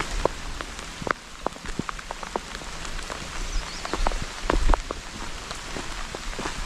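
Heavy rain falling, a steady hiss with many separate drops striking close by.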